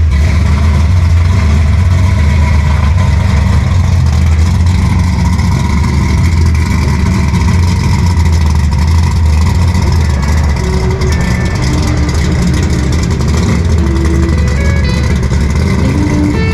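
Modified performance car engine idling loudly with a deep, steady rumble that eases slightly about two-thirds of the way through.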